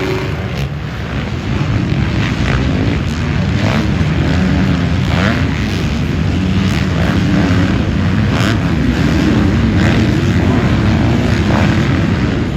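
Motocross motorcycles racing, their engines revving with constantly shifting pitch.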